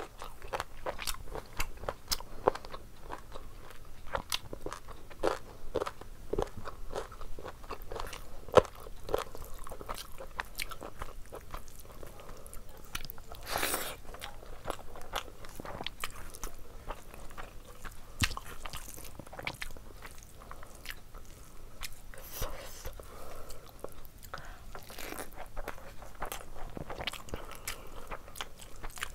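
A person eating chicken and mutton curry with rice by hand: chewing and biting with a steady run of short sharp clicks and smacks, and a longer burst of mouth noise about halfway through.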